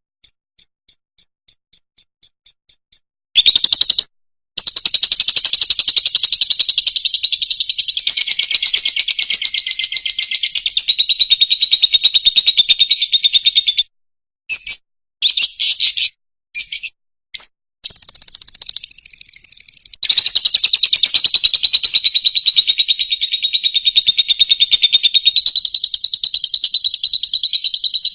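Fischer's lovebird singing: a run of about ten short, evenly spaced high chirps, then long stretches of rapid, high-pitched chattering song, broken by a few short bursts and sudden stops.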